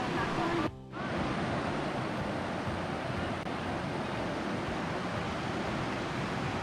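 Steady rush of flowing water, with a brief drop-out just under a second in.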